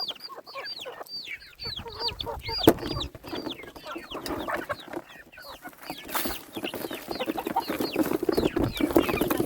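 Chicks peeping: a quick, steady run of short, high chirps that fall in pitch, several a second. There is one sharp knock a little under 3 seconds in.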